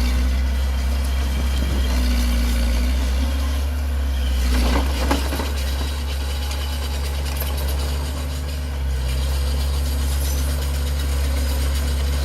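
Diesel engine of heavy earthmoving equipment running steadily with a deep, even hum, with a brief clatter about five seconds in.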